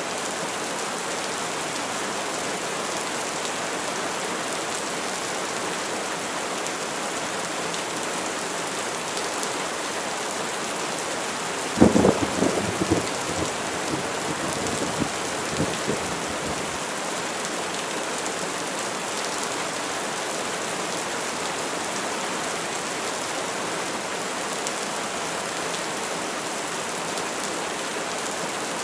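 Steady heavy rain falling, with a sharp crack of thunder about twelve seconds in that rolls and rumbles for several seconds before fading back into the rain.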